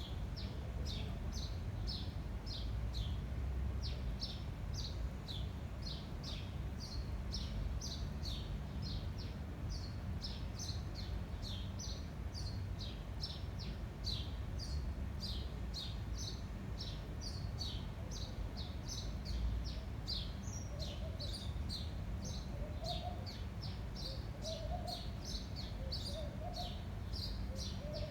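Small birds chirping in quick repeated high notes, about two a second, over a steady low rumble of wind on the microphone. In the last several seconds a second, lower call repeats faintly.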